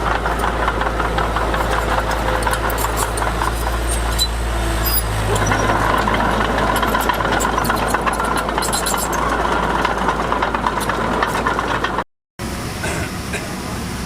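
Diesel earthmoving machinery running steadily under load, with a low engine hum and repeated metallic clanking. About twelve seconds in the sound cuts off for a split second, then a similar engine sound resumes.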